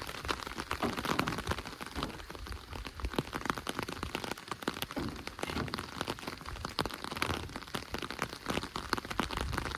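Rain falling on a surface: a dense, irregular run of small drop impacts with no letup.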